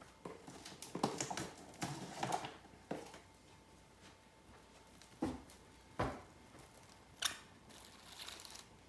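Plastic cling wrap crinkling as it is pulled out and worked over a bowl, followed by two dull thumps and a sharp click in the second half.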